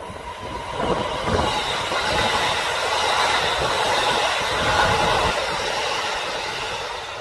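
Kintetsu electric train passing at speed: the sound swells within the first second, stays loud with the wheels clattering over rail joints, then fades as it moves away near the end.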